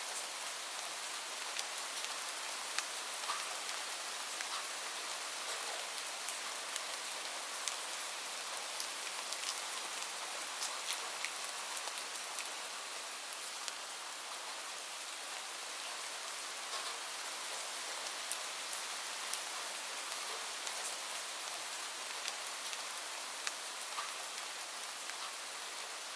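Steady rain falling, a continuous hiss with many small drops ticking sharply on a surface.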